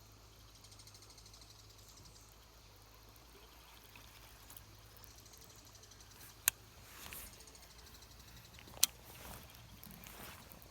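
Faint outdoor background with two sharp clicks a little over two seconds apart in the second half, each followed shortly by a brief soft rush of noise.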